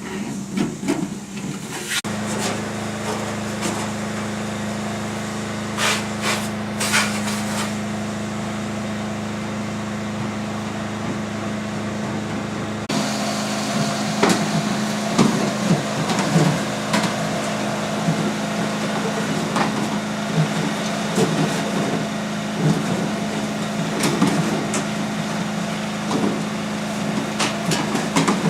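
Duct-cleaning vacuum machine running with a steady hum, with irregular knocks and clatter from hoses and tools working in the ductwork.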